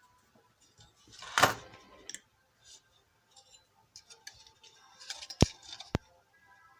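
A brief rustle and scattered small clicks, with two sharp clicks near the end, over faint background music.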